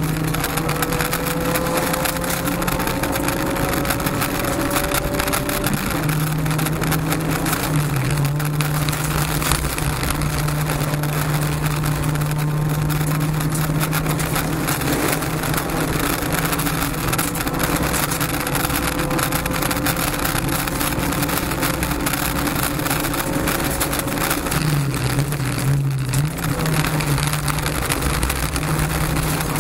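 Honda Civic rally car's 1.6-litre four-cylinder engine, heard from inside the cabin, held at high revs on a gravel stage. Its pitch rises slowly through long pulls in high gear and dips briefly twice as the throttle eases, over a constant crackle of gravel under the car.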